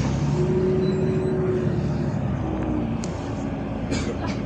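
A LiAZ 5292.65 city bus under way, heard from inside: the drivetrain hum and road noise run steadily, and the hum's pitch dips slightly about halfway through. A few sharp clicks or rattles come near the end.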